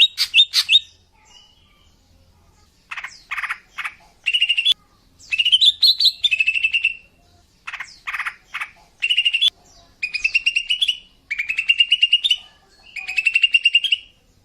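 A female greater green leafbird (cucak ijo) calling. It gives a few short harsh notes, then a string of rapid buzzy chattering trills, each lasting about a second and rising slightly in pitch.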